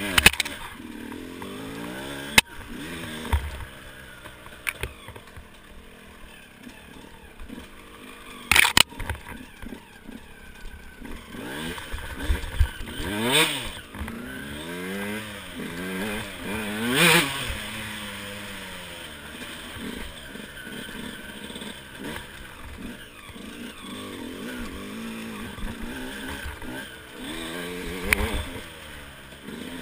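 KTM 125 EXC's single-cylinder two-stroke engine under way on a dirt trail, its revs rising and falling with the throttle and gear changes, revving up hard twice about halfway through. A few short sharp knocks cut in.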